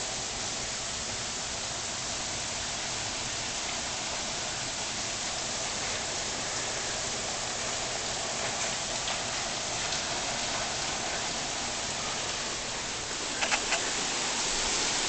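Heavy thunderstorm rain pouring steadily, a hiss of water with no break, growing a little louder near the end, where a few brief sharp sounds cut through about thirteen seconds in.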